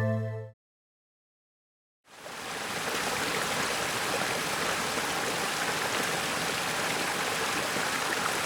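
Background music ends about half a second in; after a second and a half of silence, a steady rush of water spraying inside a Bosch dishwasher during its wash cycle fades in and carries on.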